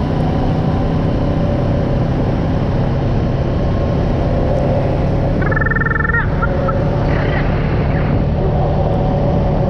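Off-road vehicle engine running steadily under way. A brief high warbling squeal comes about five and a half seconds in.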